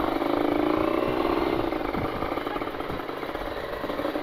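Single-cylinder two-stroke engine of a Kawasaki Ninja 150 RR running under way with a rapid rattling beat. Its pitch dips a little in the middle and starts to climb again near the end.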